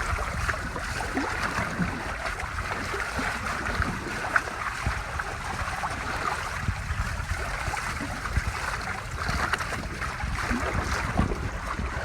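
Water rushing and splashing past a sailing catamaran's hulls under way, with wind buffeting the microphone.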